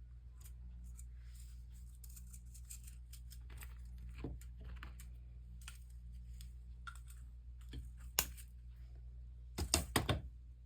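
Scattered small clicks and crackles of hand soldering on a copper-foiled stained-glass panel, the iron and solder working along the seams. A quick cluster of louder clicks comes near the end, over a steady low hum.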